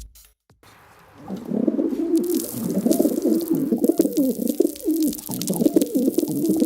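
Pigeon-like cooing: low, wavering calls that start about a second in and warble on without a break.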